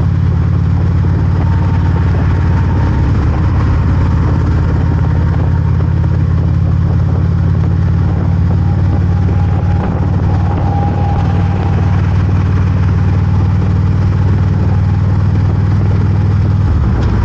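Harley-Davidson V-twin motorcycle engine running steadily, with a deep, even rumble.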